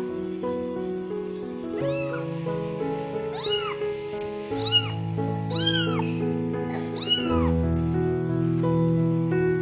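Angora-mix kitten meowing repeatedly, about six calls that each rise and fall in pitch, crying for its mother.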